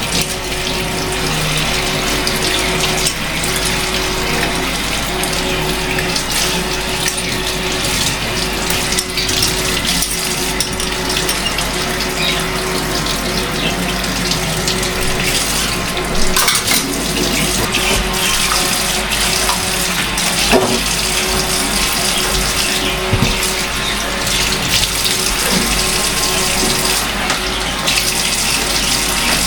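Kitchen sink tap running steadily, water splashing into the sink, with a few short knocks of things being handled in it.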